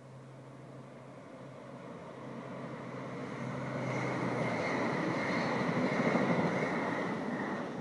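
SBB double-deck passenger train passing below, its rumble growing louder and peaking about six seconds in, with a steady high whine over the second half.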